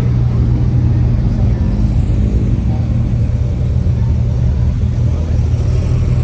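Supercar engine running steadily at idle, a low, even rumble.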